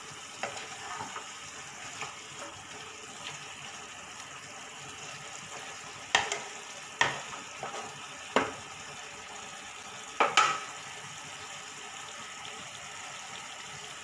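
Raw jackfruit pieces sizzling in oil and spice paste in a kadai as they are fried down until the oil separates. A spatula stirs them, knocking and scraping sharply against the pan several times, loudest in the second half.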